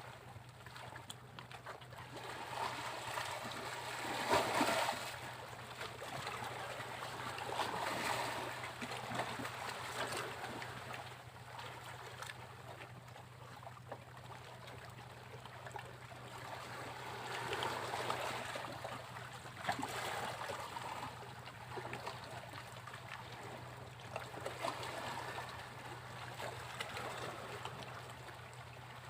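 Sea waves breaking and washing up a beach, rising and falling in swells a few seconds apart, the strongest about four seconds in. A steady low hum runs underneath.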